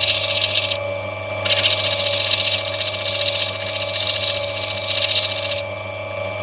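Lapidary grinding wheel motor running steadily while a black opal knobby is pressed against the wheel to rub back its top, making a loud grinding hiss. The stone is lifted off briefly about a second in, then ground in one long pass that stops shortly before the end.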